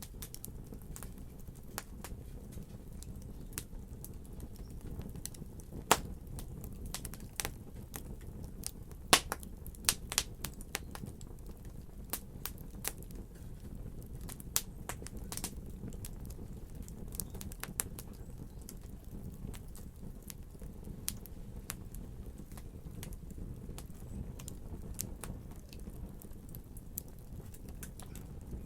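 Wood fire burning in a fireplace: a steady low rumble of flames with irregular crackles and sharp pops from the burning logs.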